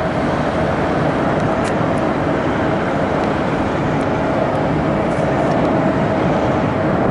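Jet airliner engines running close by: a steady rushing noise with a constant whine, growing slightly louder.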